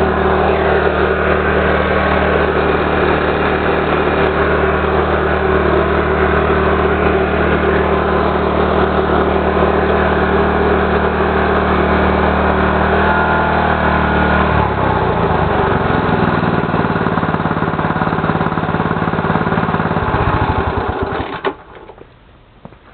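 Mitsubishi GM132L small engine on a power sprayer running steadily, then dropping to a lower, slower speed about 15 seconds in. About 20 seconds in it is shut off, slows with a few separate pulses and stops.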